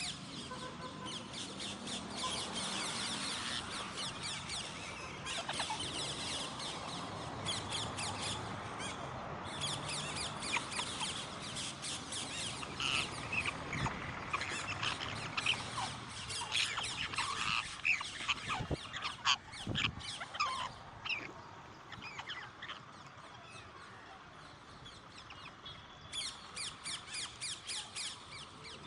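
Parrots squawking and chattering, many sharp high-pitched calls in quick succession, easing off for a few seconds past the middle before a quick run of calls near the end.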